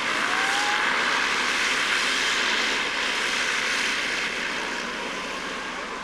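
Propeller aircraft engine and propeller noise, a steady loud rush that eases slightly near the end.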